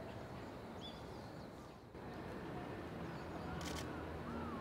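Small birds chirping in short, rising and falling calls over a steady low rumble of outdoor background noise, with one short sharp noise about three and a half seconds in.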